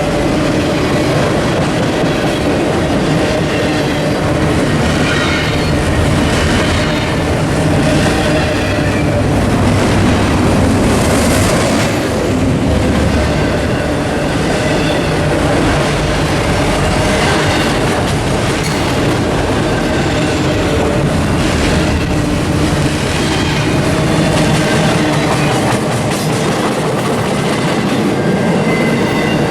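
A train rolling past: a continuous rumble of steel wheels on rail, with repeated clicks as the wheels cross rail joints.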